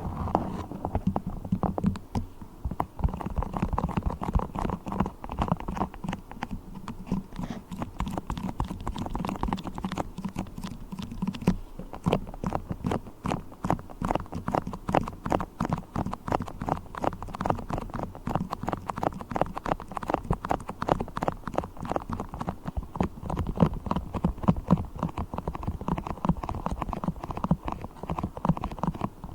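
Beeswax being handled close to the microphone: fast, dense sticky crackling and tapping, many small clicks a second.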